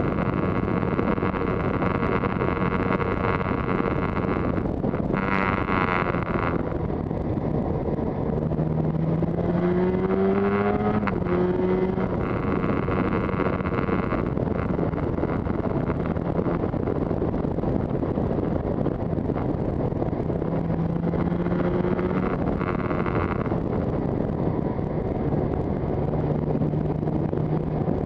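Yamaha TZR250's two-stroke engine running while riding, over a steady rush of wind noise. Its pitch rises and falls with the throttle, with one clear climb about ten seconds in that then drops back.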